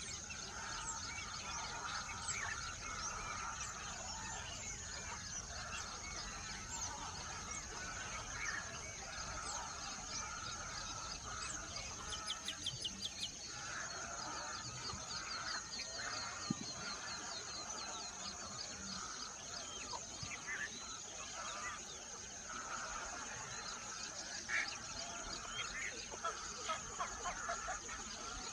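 Birds calling: many short chirps and calls overlapping, with a rapid trill of quick chirps about twelve seconds in, over a steady high-pitched tone.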